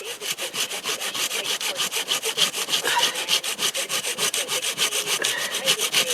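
Hand saw cutting through firewood in fast, even back-and-forth strokes.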